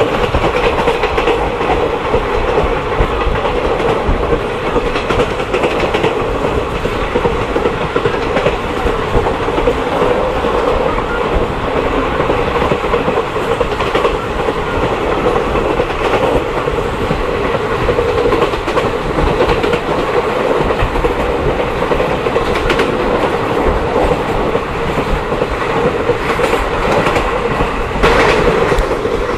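Passenger train of the Mahamana Express running along the line: a steady running noise with wheels clicking over rail joints here and there, swelling slightly near the end.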